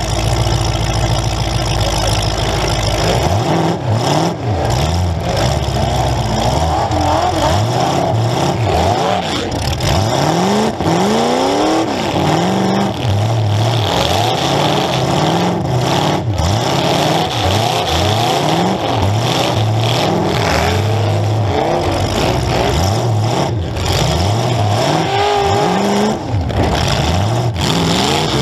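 Demolition derby car engines revving up and dropping back over and over, several at once, with a few sudden knocks scattered through.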